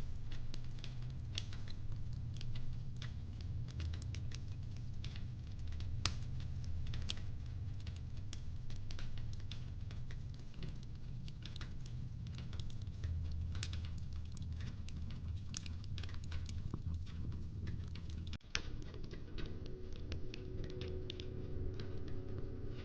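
Fireplace crackling: irregular sharp pops and snaps of burning wood over a steady low rumble of the fire.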